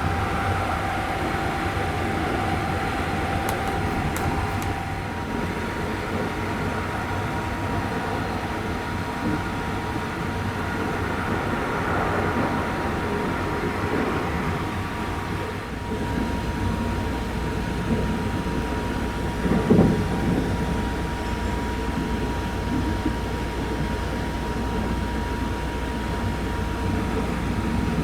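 285 series Sunrise Express sleeper train running, heard from inside a car: steady rumble and rail noise with a faint steady high tone, and the low rumble deepens about halfway through.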